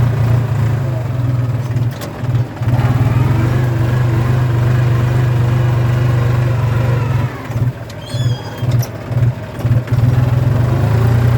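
Tractor engine running steadily under load while ploughing, dipping briefly about two seconds in and several times between about seven and ten seconds, then picking up again with a rising pitch. A few short high chirps come about eight seconds in.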